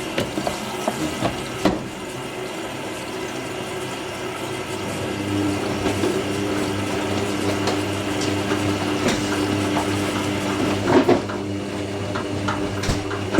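Hoover NeXtra front-loading washing machine mid-cycle, with water moving inside it. A steady machine hum grows louder about five seconds in, and a few light clicks come near the start and again near the end.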